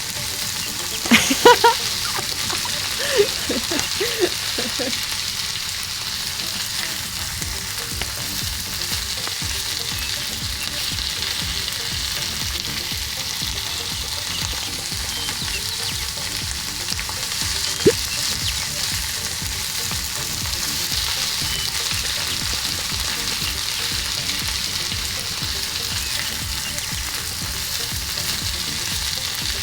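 Besan-battered pakoras deep-frying in hot oil, a steady sizzle throughout. A few short sharp sounds come in the first five seconds, and a single click about eighteen seconds in.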